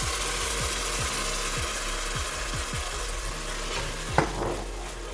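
Onion, chili and tomato-paste sauce sizzling in a hot pan with chicken stock just poured in, while it is stirred. A single sharp knock comes about four seconds in.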